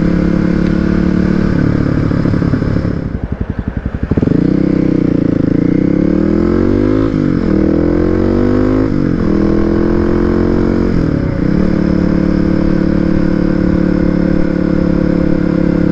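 Kawasaki motorcycle engine on the move. It runs steadily, drops to a slow pulsing a few seconds in, then pulls away with the pitch rising and falling through about three gear changes before settling into a steady cruise.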